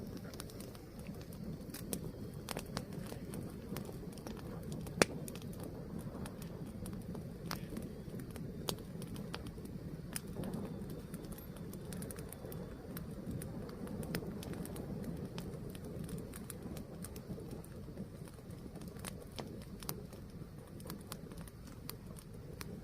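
Fire burning, a steady low rumble with scattered crackles and pops; one sharp, loud pop about five seconds in.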